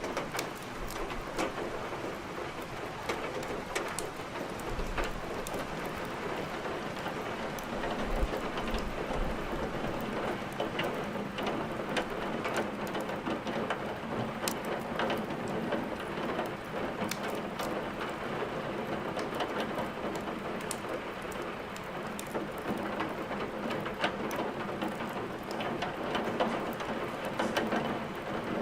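Steady rain falling, mixed with frequent sharp crackles from wood logs burning in a fireplace.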